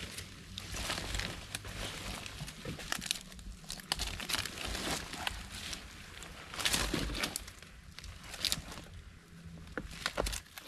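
Leaves and forest litter rustling and crackling in irregular bursts as they are pushed aside by hand.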